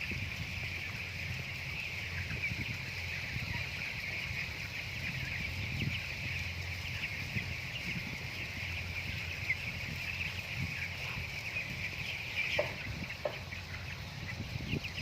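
A flock of broiler chickens calling continuously, a steady mass of overlapping peeps and clucks, over a low steady hum.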